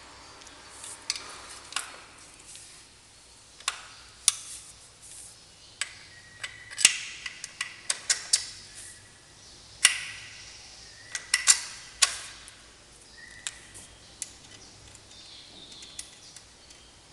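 Hand tools and metal engine parts clinking and knocking irregularly, a few of the knocks ringing briefly, during engine dismantling-and-assembly work.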